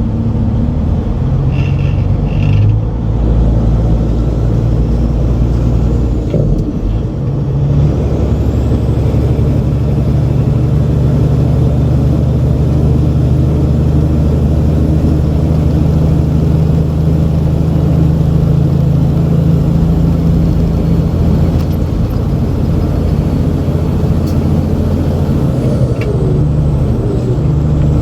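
Semi truck's diesel engine running under way, its note changing a few times in the first several seconds and then holding steady.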